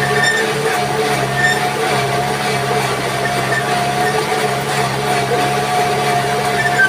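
Kubota tractor's diesel engine running steadily, with a steady whine above the engine drone.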